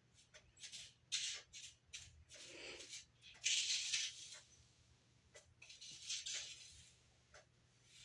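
Intermittent rustling and scraping handling noises, irregular and uneven in loudness, with the loudest burst about halfway through.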